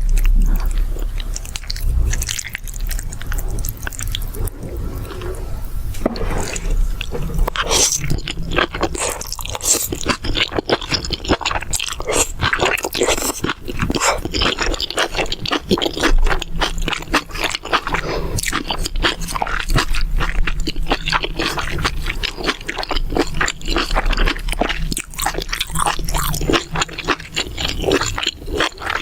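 Close-miked chewing and crunching of stir-fried mala xiang guo: a dense run of quick, crisp crunches and bites, thicker after the first few seconds.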